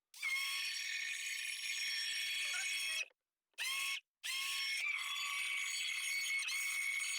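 Small battery-powered handheld electric whisk whisking coffee with ghee and coconut oil: a steady high-pitched motor whine. It is switched on, runs about three seconds, stops, gives a short burst, then runs another three seconds.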